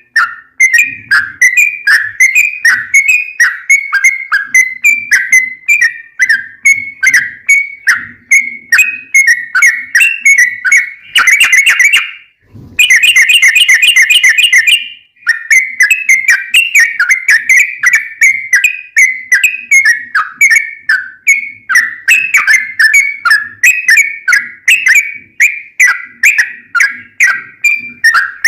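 Yellow-vented bulbul (trucukan) singing long, rapid runs of repeated whistled notes, about three a second. In the middle the notes come faster and close together in a dense trill, with a short break.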